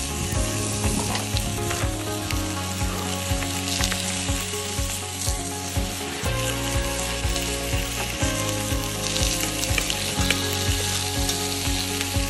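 Mixed vegetables sizzling as they fry in an enamel pot on a camp stove, with a spoon stirring them, over background music with a steady beat.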